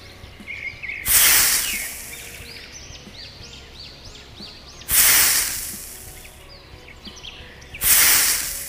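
Three loud, hissing scrapes about three seconds apart, each fading over about a second, as wooden sticks are pushed into sand. Bird chirps run steadily in the background.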